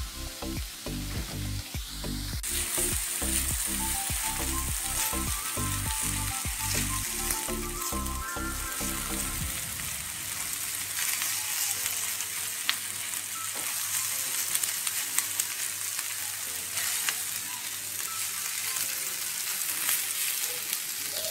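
Paella rice frying in hot oil and being stirred: a steady sizzle with scattered clicks of the spoon on the pan. The sizzle gets louder about two seconds in. Background music with a steady beat plays under it for the first half and stops about ten seconds in.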